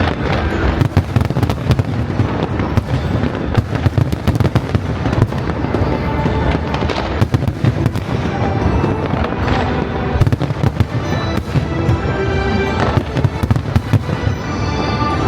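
Fireworks display in a dense barrage: many rapid, overlapping bangs and crackles with no let-up. Music plays underneath and stands out more in the last few seconds.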